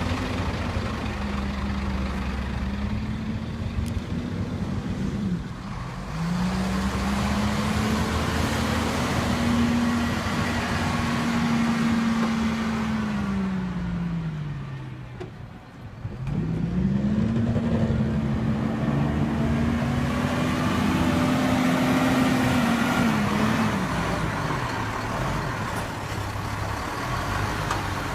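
Scania truck's diesel engine running. Its pitch climbs, holds high for several seconds and drops back, twice, with a brief lull in between about halfway through.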